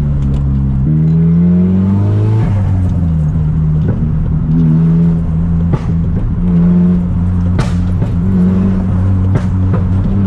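Straight-piped Nissan Silvia S15's SR20DET turbo four-cylinder while driving. It revs up for about a second and a half, falls sharply, then runs fairly steadily at low revs with small rises, with a few sharp clicks.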